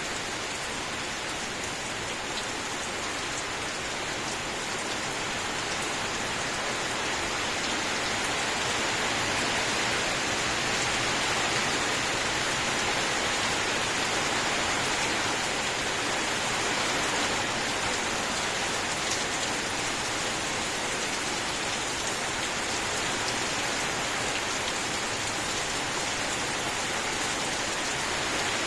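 Steady rain falling: an even hiss with faint scattered drop ticks, growing a little louder after the first several seconds.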